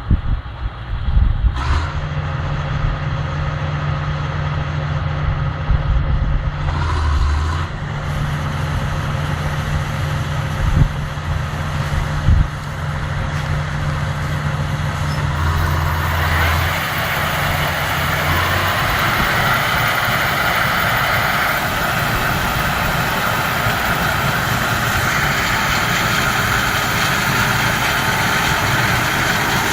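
John Deere 9660 STS combine running with a steady engine drone and a few sharp knocks. About halfway through, a louder rushing noise builds in over the engine and holds steady.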